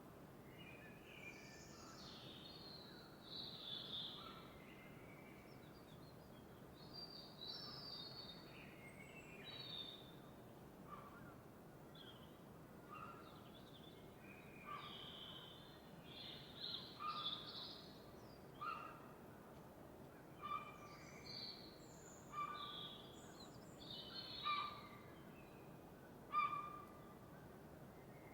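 Several birds calling in a dawn chorus: short chirps and call phrases at irregular intervals, more frequent in the second half, over a soft steady hiss.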